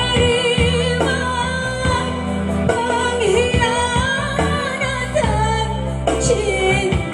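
Live band music with a sung melody, the voice held on long wavering notes over steady sustained bass.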